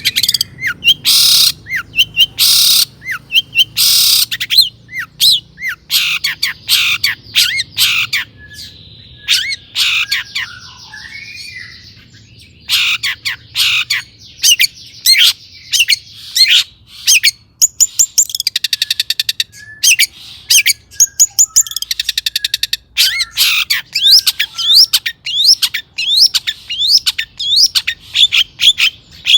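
Long-tailed shrike (cendet) singing a fast, varied song of rapid sharp chirps and harsh notes, broken by buzzy trills about a third of the way in and again past the middle.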